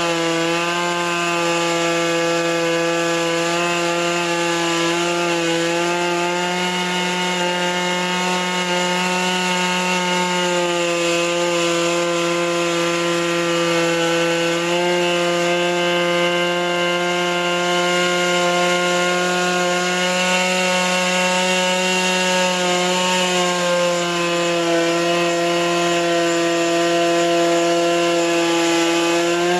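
Two-stroke chainsaw running at high, steady speed while ripping lengthwise through a cedar log on a Logosol chainsaw mill, with the engine's pitch sagging and recovering slightly as the cut loads it.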